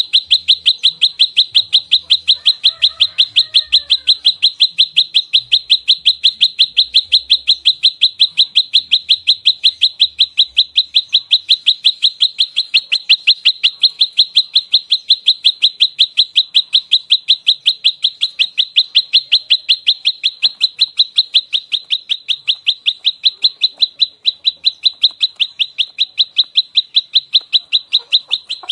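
Prenjak lumut songbird giving its fighting call: a rapid, unbroken series of short, sharp, high chips, about five a second and even in pitch. This is the rapid 'nembak rapat' burst of a bird calling in territorial aggression.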